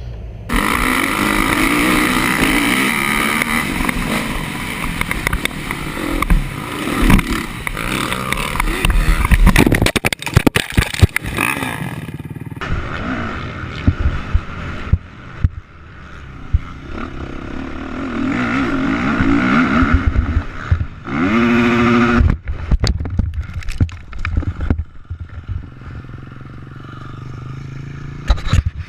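Dirt bike engines running and revving across several short clips that cut abruptly from one to the next, with knocks and scraping among them, and one rising rev about two-thirds of the way through.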